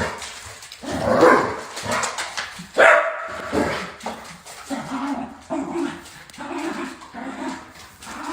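Dog barking: a few loud barks in the first three seconds, then a steady run of shorter barks about every half second to the end.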